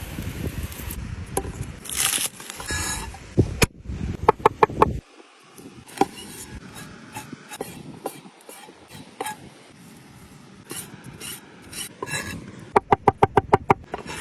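Scraping and rubbing on wood, broken by sharp taps, with two quick runs of even, ringing knocks.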